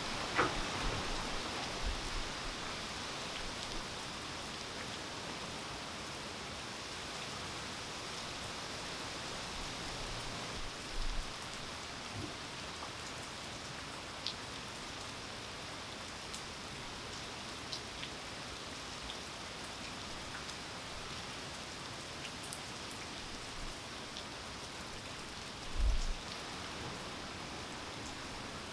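Steady rain falling on the ground, with scattered single drops ticking close by. Two short low thumps come about a third of the way in and near the end.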